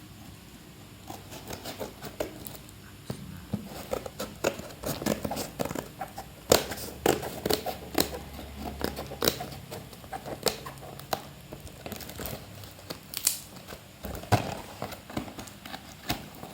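Packaging of LED light bulbs being handled and opened by hand: irregular crinkling, rustling and sharp clicks and taps, busiest from about five seconds in.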